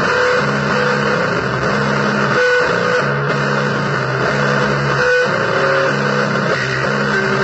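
Guitar playing a repeating low blues riff, with a few higher notes on top and a steady hiss of noise underneath.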